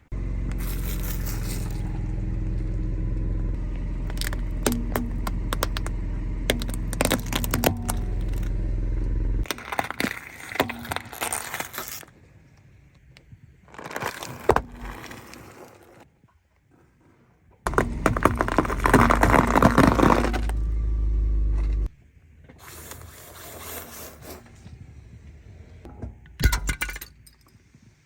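A car's tyres rolling over and crushing objects: snapping, crackling and breaking sounds over the car's low rumble, in several short clips that start and stop abruptly.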